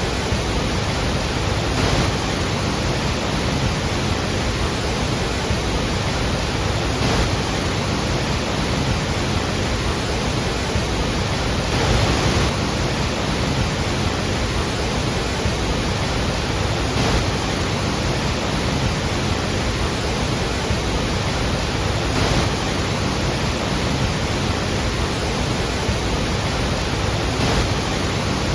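Steady rush of the Iguazu Falls' falling water, a dense unbroken noise with faint swells about every five seconds.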